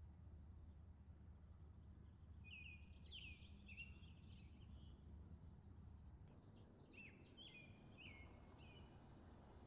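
Faint outdoor ambience: small birds chirping in short sliding calls, in two spells, over a low steady rumble.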